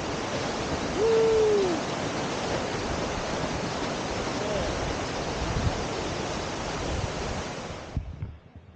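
Steady roar of a 55 m plunge waterfall, an even rush of falling water. About a second in, a single short hoot that rises and falls in pitch sounds over it, and the water noise cuts off abruptly near the end.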